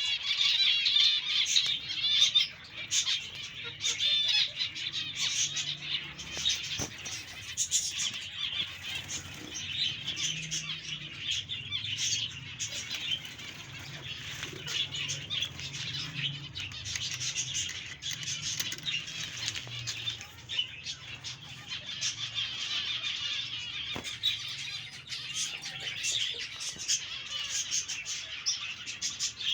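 A flock of budgerigars chattering and chirping continuously, with wings fluttering now and then.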